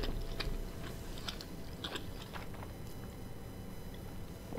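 A person chewing a mouthful of omelet close to the microphone, with soft scattered mouth clicks.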